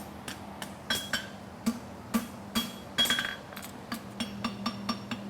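Hand hammer striking a hot steel horseshoe on an anvil, about three blows a second with the anvil ringing after each, a few blows heavier than the rest: forging and cleaning up the heel of a hind draft bevel shoe. A steady low hum runs underneath.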